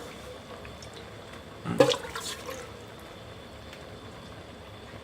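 Liquid curry sloshing in a cooking pot over a steady background hiss, with one loud splash-and-knock a little under two seconds in.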